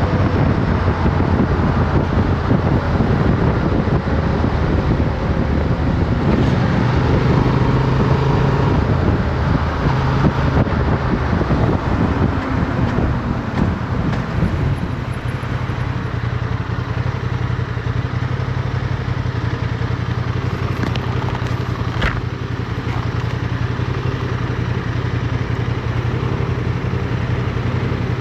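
Motorcycle engine with wind noise at the helmet-mounted camera. The engine note rises and falls through the first half, then settles to a steadier, slightly quieter note from about halfway on.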